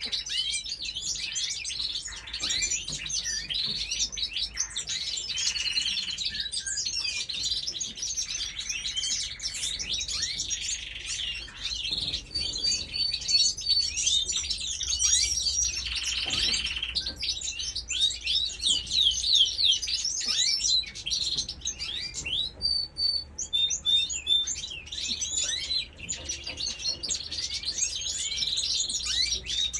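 Many small birds chirping and twittering together in a dense, continuous chorus of overlapping short chirps and quick high sweeps.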